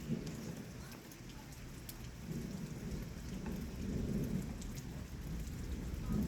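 Steady rain with thunder rumbling low underneath, swelling about two seconds in and again near the end, with scattered raindrop ticks on top.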